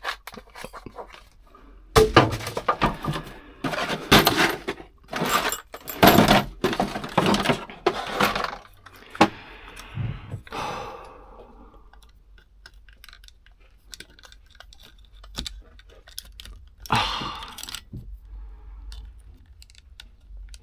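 A series of metallic clinks, rattles and knocks from hand tools and small metal parts being handled. They are busiest in the first half, with one more burst later on.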